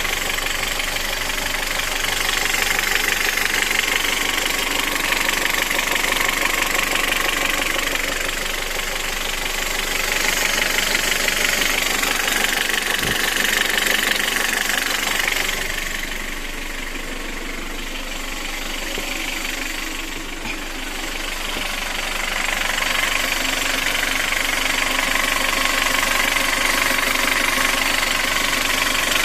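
Kia G4FC 1.6-litre four-cylinder petrol engine idling with a knock that shows up once the engine is hot, on an engine with 235,000 km. The running grows quieter for a few seconds midway, then comes back.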